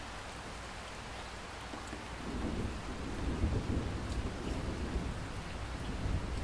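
Steady rain falling, with a low roll of thunder that builds about two seconds in and rumbles on.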